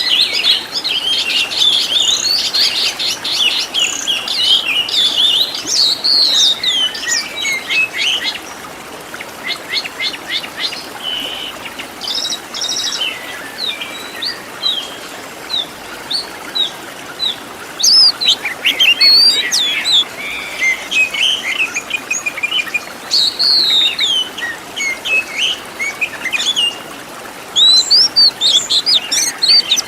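Oriental magpie-robin singing a fast, varied song of high whistles, chirps and chattering notes, in bursts with short lulls between.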